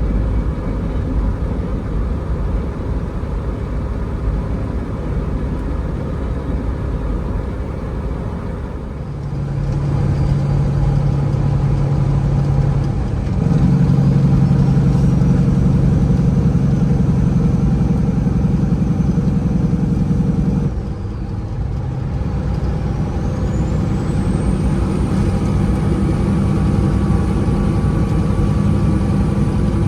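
Peterbilt 379 dump truck's diesel engine running loaded, its note stepping up about nine seconds in and again a few seconds later, then dropping back about twenty-one seconds in. A thin whistle rises and then holds near the end.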